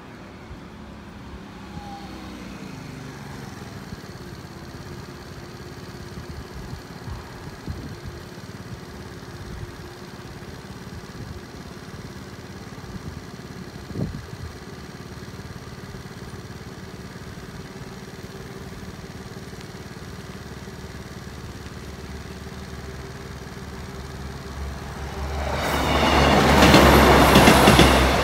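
A Class 156 diesel multiple unit passing at speed. It builds up over the last few seconds and is loudest near the end, over a steady low background hum.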